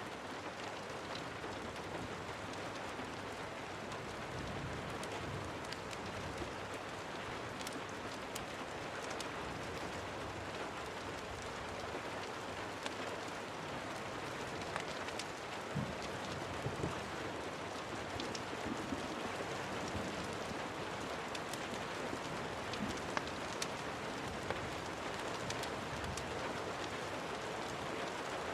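Steady rain falling, an even hiss with many scattered sharp ticks of drops, a few of them louder in the second half.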